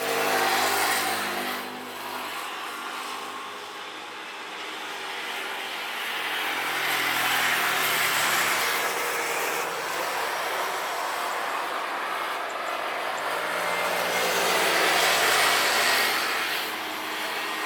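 Engine noise of passing vehicles, swelling and fading about three times, with an engine tone that falls in pitch around the middle.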